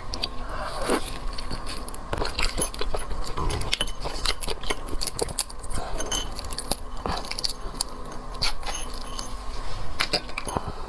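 Dense, irregular crackling and clicking of a crayfish shell being cracked and peeled by hand, with a few sharper snaps.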